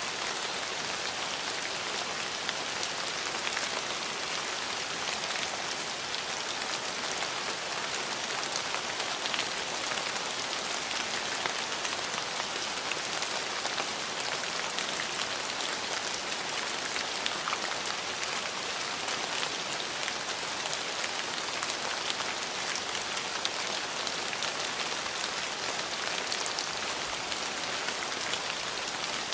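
Steady rain falling on hard surfaces: an even hiss with many small drop ticks, no change in intensity.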